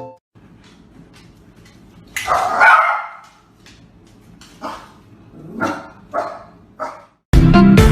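A dog barks: one loud, drawn-out bark about two seconds in, then four shorter barks spaced over the next few seconds.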